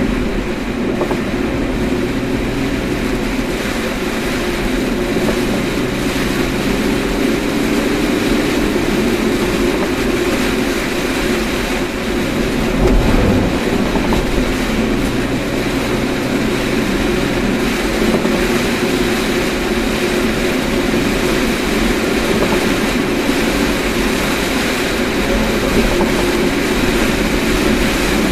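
Steady road and engine noise of a moving car, with a low hum.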